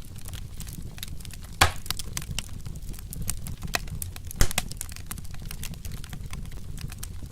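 Wood fire crackling steadily over a low rumble of flame, with two louder pops, one about a second and a half in and another about four and a half seconds in.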